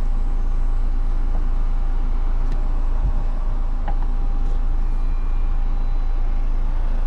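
Car engine idling: a steady low rumble with a faint steady tone over it that stops near the end.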